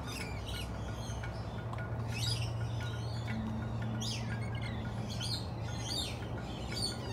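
Birds chirping, many short, sharp calls one after another over a steady low hum.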